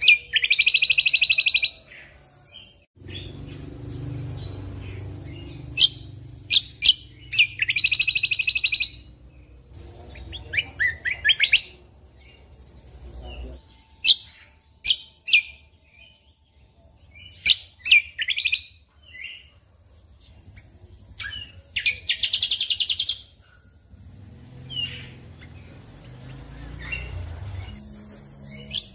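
Cucak kombo (kecial kombok) songbird singing: fast, bright trilled bursts about a second and a half long come three times, near the start, about a third of the way in and near the end. Short sharp chips and whistled notes are scattered between them, over a faint low rumble.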